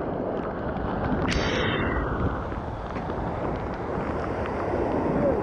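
Waterfall water rushing and splashing close by, a steady, even roar of noise.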